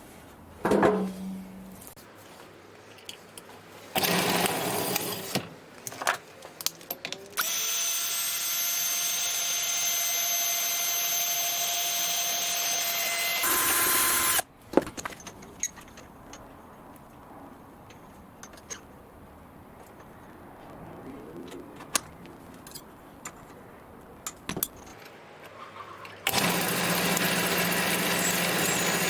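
Home-built Gingery milling machine's motor starting and running in spells, with a steady whine while it runs. Between the runs it is quieter, with scattered clicks and knocks.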